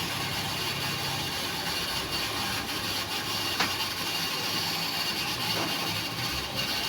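Electric water pump running steadily, building pressure in the pressure tank before its pressure switch reaches cut-off.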